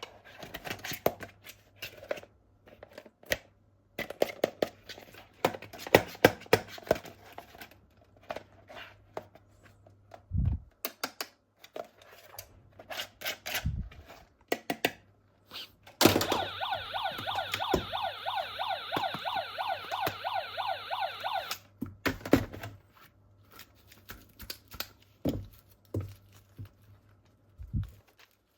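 Plastic toy parts and packaging being handled, with a run of clicks, knocks and rustles. About halfway through, an electronic sound effect from a toy, a steady, rapidly pulsing buzz, plays for about five seconds and cuts off suddenly, followed by more clicking and handling.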